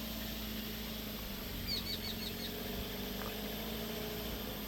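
Idling engine of a safari game-drive vehicle, a steady low hum, with a bird calling a quick series of about five short high notes about two seconds in.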